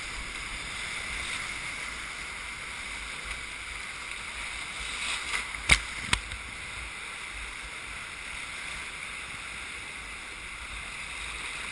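Steady rush of river water around a kayak on a Class II-III river, with two sharp knocks close together about six seconds in.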